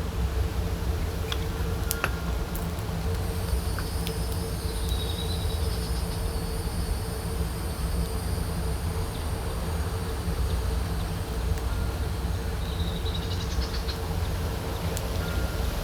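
Outdoor ambience: a steady low rumble with a thin, high, insect-like drone from about three seconds in until near the end, a couple of short high chirps, and a few faint clicks.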